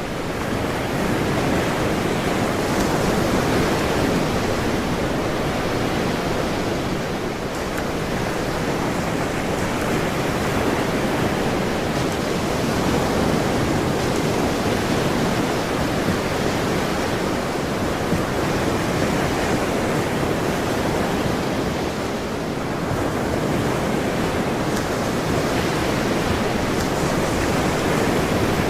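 Ocean waves breaking as a continuous rush of surf that slowly swells and eases, dipping briefly twice.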